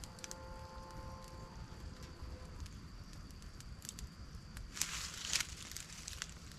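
Faint scattered crackles and clicks with a steady high thin tone behind them, then a louder rustle about five seconds in.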